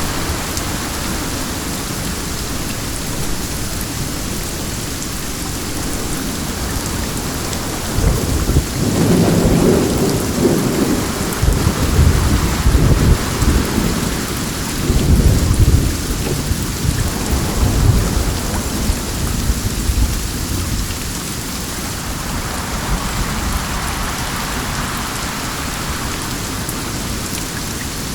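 Steady rain, with a long roll of thunder rumbling low that starts about a third of the way in, swells and fades over about ten seconds.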